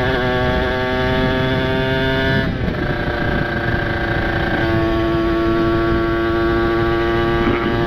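Ported two-stroke single-cylinder engine of a Kawasaki Ninja RR with an open exhaust, running at high revs under way. Its pitch climbs, then drops at a gear change about two and a half seconds in and again near the end.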